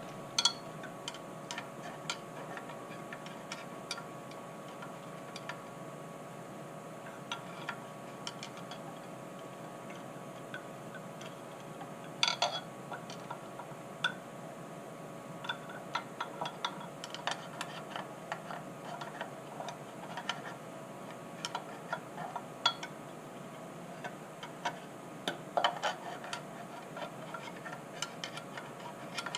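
Scattered light clicks and taps of small metal tools and parts being handled, irregular and a few seconds apart, with a louder clatter about twelve seconds in and again near the end, over a steady hum.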